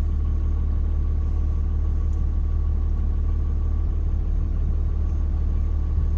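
Truck engine idling with a steady low rumble, heard from inside the cab.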